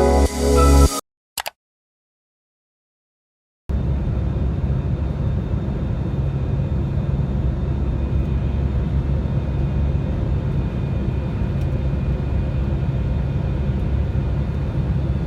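Background music cuts off about a second in, followed by a couple of seconds of silence. Then a steady low rumble starts, like a vehicle running, and holds evenly to the end.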